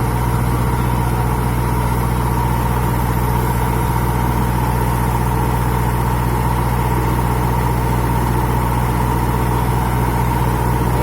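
Engine of a pile drilling machine running steadily, a low, even hum with a steady high whine over it.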